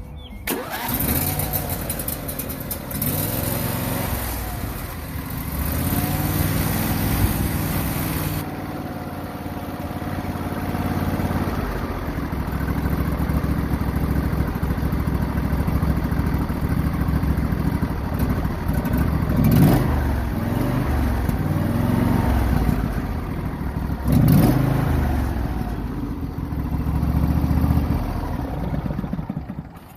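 Lawn tractor engine starting about half a second in and running, its pitch rising and falling as the throttle changes, with freshly changed oil.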